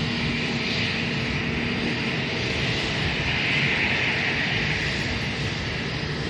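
Airliner's engines running, a loud, steady rushing noise with a faint steady hum beneath it, swelling slightly a few seconds in.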